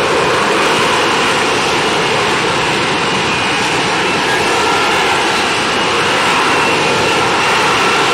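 Loud, steady noise of an airplane's engines, holding an even level without rising or falling.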